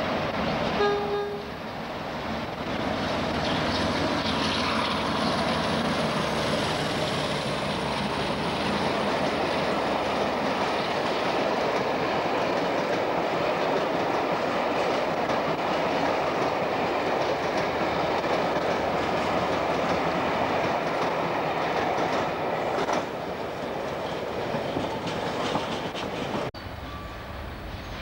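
Class 47 diesel locomotive hauling a rake of Pullman coaches through a station, with a brief horn note about a second in. The steady running and rail noise of the passing train carries on until it eases off a few seconds before the end, then drops after a sudden cut.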